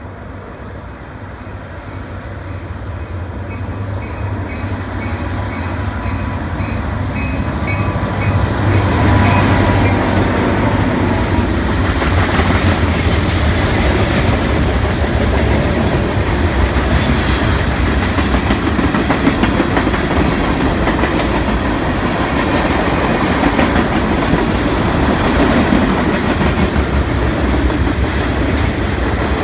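CN train passing: its diesel locomotive's low engine rumble grows louder over the first eight seconds or so, then the cars roll by with a steady rumble and clickety-clack of wheels on rail joints.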